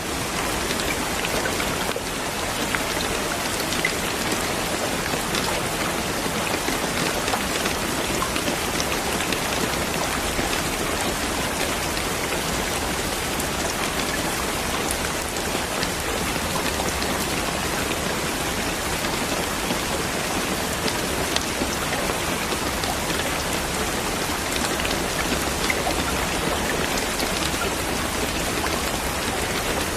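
Steady rain falling on a surface, a dense even hiss with scattered small drop ticks.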